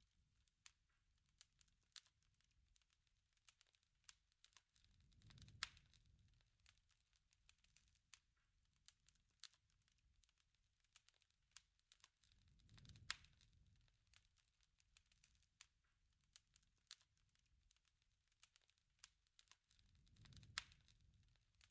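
Wood fire crackling with irregular sharp pops, and a soft low rush that swells three times, each swell carrying a louder pop.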